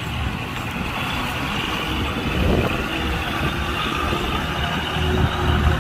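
Heavy diesel machinery running steadily, a low engine drone with a rough mechanical noise over it.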